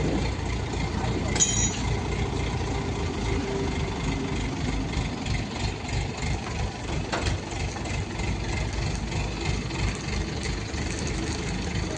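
Heavy diesel machinery engine running at a steady idle with a low rumble, with a brief high-pitched squeak about one and a half seconds in.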